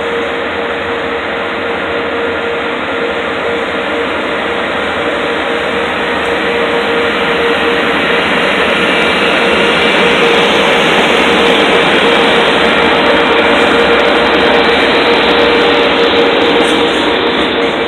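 A train passing close by: a loud, steady rush of wheels and running gear with a constant whine, growing louder in the middle, and quick wheel clicks over rail joints near the end.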